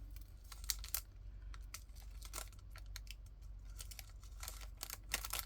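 Small plastic bags crinkling and being handled, with scattered light clicks and ticks, as diamond-painting drills are sorted into storage containers.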